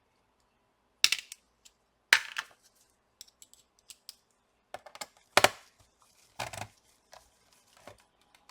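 Scattered sharp clicks and taps, about six at irregular intervals, the loudest a little past the middle: a screwdriver and small screws being handled against a laptop's plastic bottom case while the screws are taken out.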